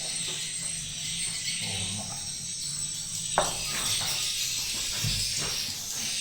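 Dense, continuous high-pitched twittering of swiftlet calls, with a sharp click a little over three seconds in and a few softer knocks.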